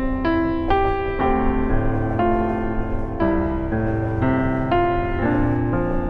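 Gentle solo piano music, a new note or chord about every half second, over a steady low rumble.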